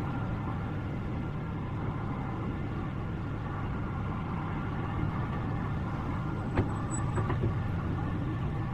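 A truck's engine running steadily with a low rumble, and a single sharp knock about two-thirds of the way through.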